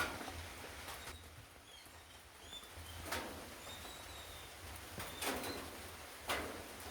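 Small birds giving short, high chirps, with five brief, louder swishing sounds spread through and a low steady hum underneath.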